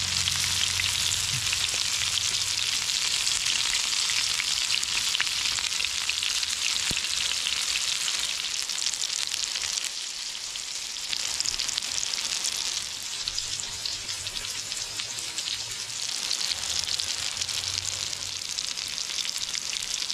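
Panko-crumbed barramundi fish cakes sizzling steadily as they shallow-fry in hot rice bran oil in a pan, the sizzle easing briefly about halfway through.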